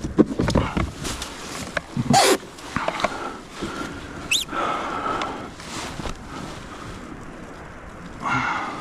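Scattered knocks, clicks and rustling from a fish and gear being handled aboard a kayak, with a brief rising squeak about four seconds in.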